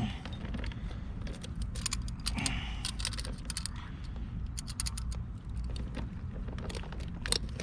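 Scattered sharp clicks and light rattles over a steady low rumble: a fishing lure and its hooks being handled and worked loose from a fish's mouth.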